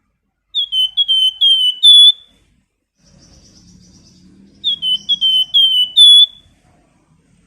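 Flamboyan songbird singing two phrases of clear, high whistled notes, each a quick run of about six slurred notes ending on a higher one, the phrases about four seconds apart.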